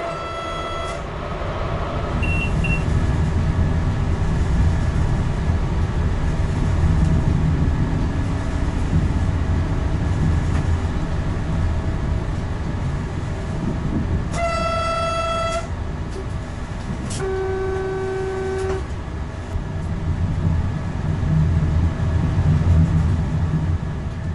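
Cab of a Renfe Class 120 Alvia electric train under way, with a steady low running rumble. A clear, steady high tone sounds briefly at the start, again just past the middle and at the end, and a lower tone sounds for about a second and a half a few seconds after the middle one.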